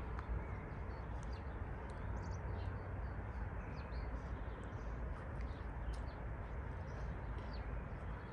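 Small birds chirping, with short high calls scattered throughout, over a steady low rumble of outdoor background noise.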